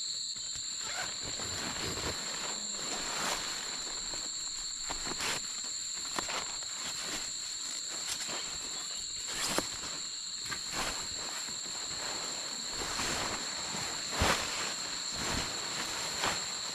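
Insects chirring steadily in two high, even tones, with scattered rustles and knocks from handling things nearby, the sharpest about ten and fourteen seconds in.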